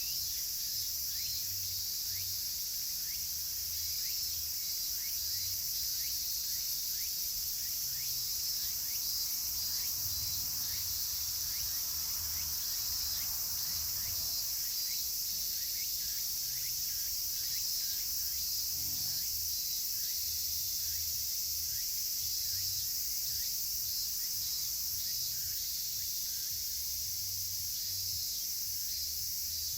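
Chorus of cicadas, including higurashi (evening cicadas): a steady high-pitched drone with a long run of short, rapidly repeated notes over it.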